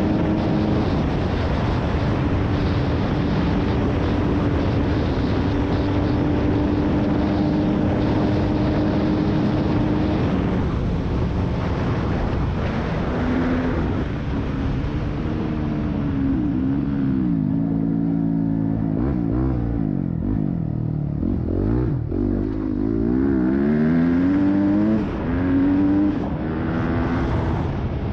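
Yamaha YZ250F 250 cc four-stroke single-cylinder motocross engine held at a steady high pitch at full speed, under heavy wind rush. After about ten seconds the engine revs rise and fall again and again as the bike slows, and the wind noise fades.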